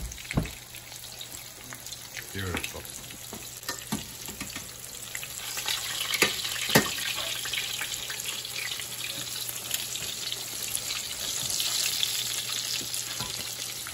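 Breaded pork cutlets shallow-frying in canola oil in a skillet: a steady sizzle that grows louder about halfway through. A few sharp clicks of metal tongs knocking the pan, the loudest a little after the middle.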